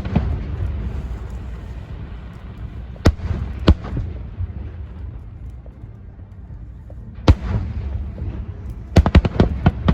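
Aerial fireworks bursting: a few separate loud bangs, then a rapid string of cracks near the end, with a low rolling rumble between them.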